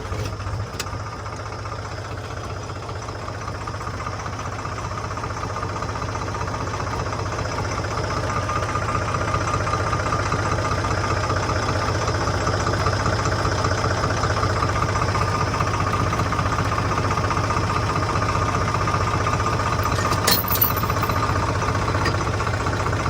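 Tractor's diesel engine running steadily while driving, growing louder over the first several seconds and then holding a constant drone. A couple of brief clicks come near the end.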